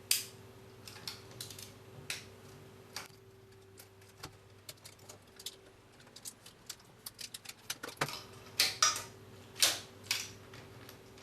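Packaging being cut and opened with a knife: scattered sharp clicks and taps, a quick run of small ticks, then several short louder scraping swishes near the end.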